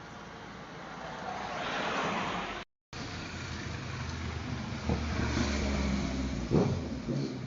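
A vehicle's rush swells and fades, then after a brief dropout an engine runs steadily, with two sharp knocks in the second half.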